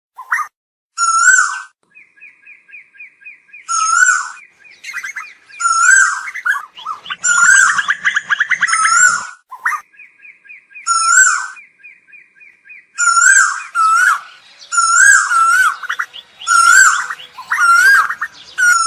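Asian koels calling: repeated short, rising-and-falling whistled notes, several overlapping. Twice they are joined by a fast, evenly spaced run of higher clicking notes lasting about three seconds.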